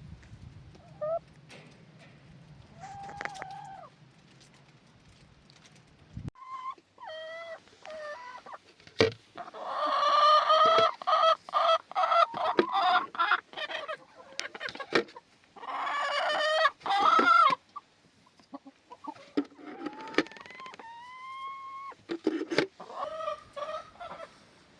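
Chickens calling: a rooster crows twice, each a long call of about a second and a half, among shorter clucks and calls from the flock, with scattered sharp clicks.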